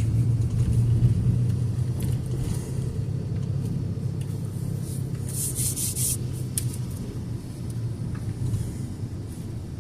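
A car's low, steady rumble of engine and road noise, slowly fading. A brief cluster of sharp clicks or rattles comes about five and a half seconds in.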